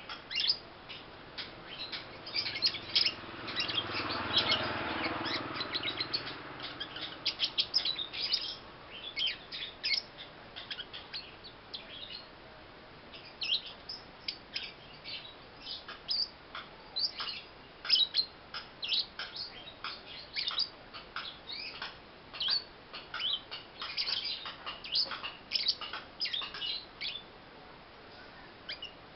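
Young pastel blue lovebird chirping: short, high-pitched chirps in quick irregular runs, with brief pauses between runs.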